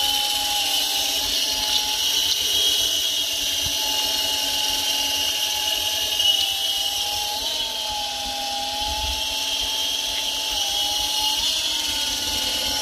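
Small electric 3.5-channel RC helicopter's motor and rotors whining steadily in flight, the pitch lifting slightly a few times as the throttle changes.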